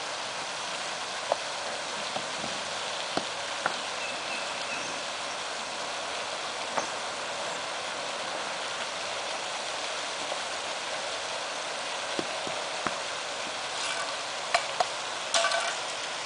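Brick pavers being set back into place: scattered sharp knocks, with a few louder stone-on-stone clinks near the end, over a steady hiss.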